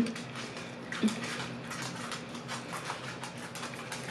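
Close-miked chewing and mouth sounds: irregular soft, wet clicks and smacks, over a faint steady hum.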